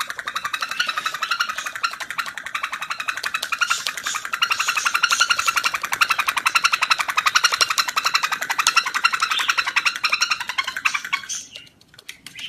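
A parrot making a fast, continuous chattering trill, many rapid pulses a second, which stops abruptly near the end.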